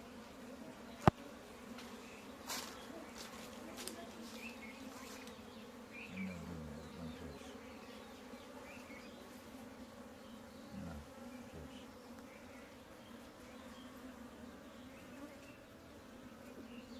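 Swarm of bees buzzing around a broken-open wild beehive, a steady hum with a couple of louder low drones that fall in pitch as bees pass close, around six and eleven seconds in. A single sharp click comes about a second in.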